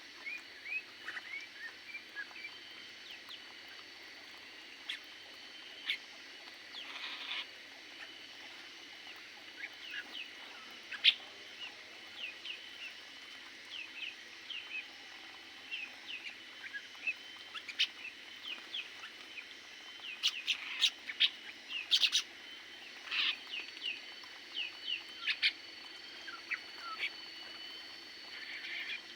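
Small aviary birds chirping: many short, sharp, falling chirps from several birds, getting busier and louder in the second half.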